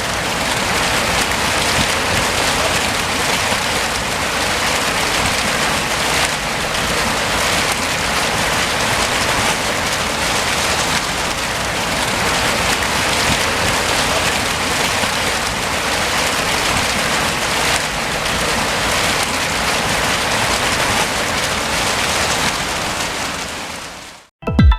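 Fountain water falling and splashing, a steady loud hiss that fades out near the end.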